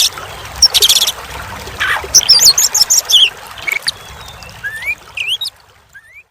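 Oriental magpie-robin (kacer) singing: short rising whistles, a run of high warbled notes and several loud harsh rasping notes, over a steady trickle of running water. The song and water fade out near the end.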